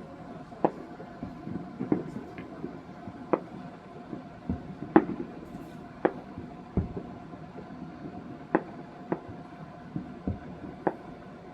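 Fireworks going off at a distance: about a dozen separate bangs and pops at uneven intervals over a low steady rumble, with one deeper boom a little past the middle.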